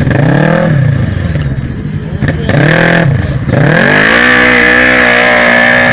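Quad bike engines revving, the pitch rising and falling a few times, then climbing and holding at high revs for the last two seconds, over a steady low drone.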